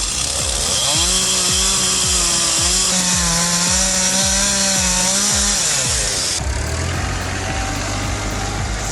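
A tractor engine running hard at high revs, with background music with a steady beat underneath. Near the end the high hiss drops away, leaving a lower steady hum.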